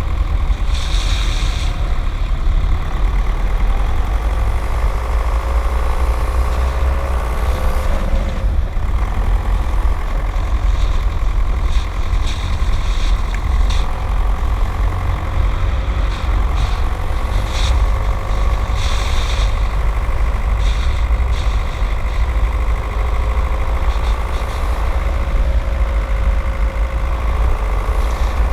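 Skoda Octavia 1.9 TDI four-cylinder turbodiesel engine running, with a heavy low rumble and an engine note that rises and falls slowly as the revs change.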